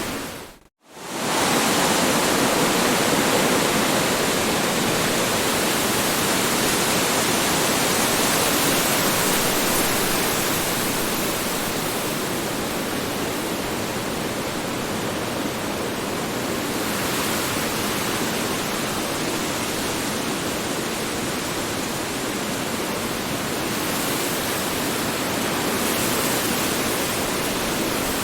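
Strong wind blowing steadily, a dense rushing noise that slowly swells and eases. It cuts out for a split second just under a second in, then comes straight back.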